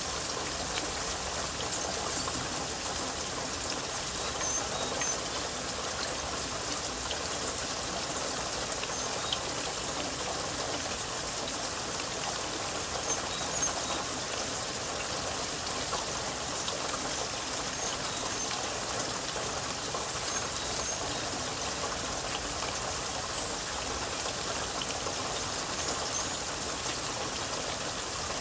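Steady rain falling: a continuous even hiss of rain with scattered drips and patter.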